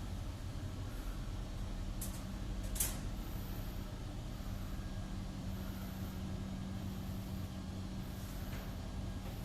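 Truck engine running steadily with a low hum, with two short hisses about two and three seconds in.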